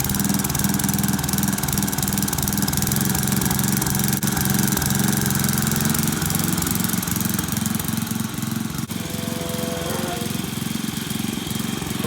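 Dynamark riding lawn mower's Briggs & Stanton engine running steadily just after starting. Music comes in faintly near the end.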